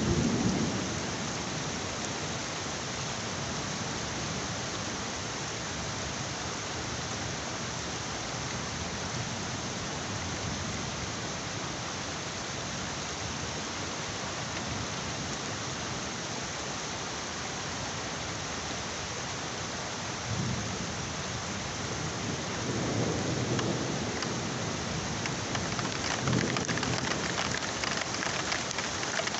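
Heavy rain falling steadily in a thunderstorm, with low rolls of thunder at the start and several more through the last third.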